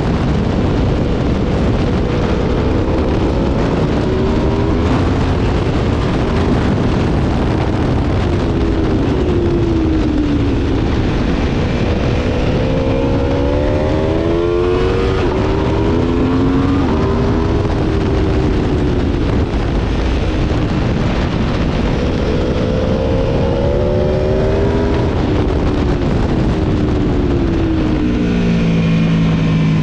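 Aprilia Tuono V4 motorcycle's V4 engine at speed on a track, its note rising through the gears several times and dropping back under a steady rush of wind noise. Near the end the pitch falls as it slows.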